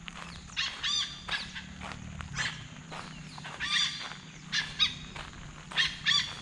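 A bird calling loudly and repeatedly: short notes in bursts of two or three, about five bursts, over soft footsteps on a dirt road.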